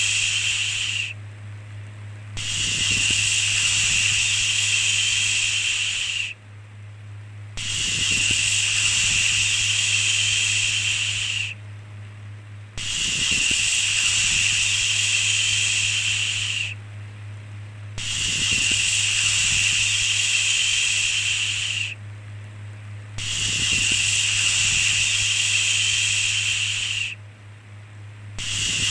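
Long 'shhh' shushing sounds repeating evenly, each about four seconds long with a short pause of about a second between them, six in all. A steady low hum runs underneath.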